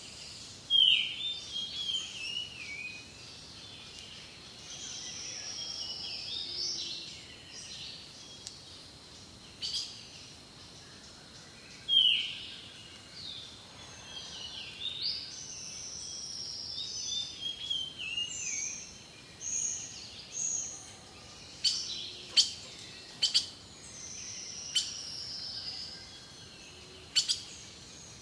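Jungle birds calling over a faint steady background of flowing river water: loud downward-sweeping calls about a second in and again near the middle, long slightly falling whistles in between, and a run of sharp clicks near the end.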